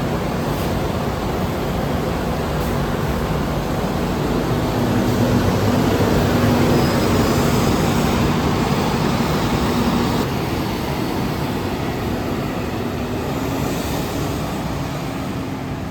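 Scania K230UB bus heard from on board: a steady engine drone under road and cabin noise. It gets louder as the bus pulls harder for several seconds, then drops suddenly about ten seconds in as the engine eases off.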